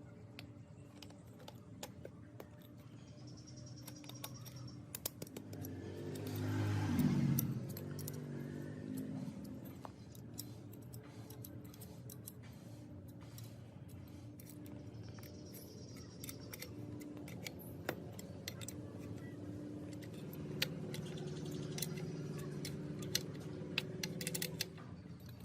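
Small metal parts clinking and clicking as they are handled, with a steady hum underneath and a louder swell about six seconds in.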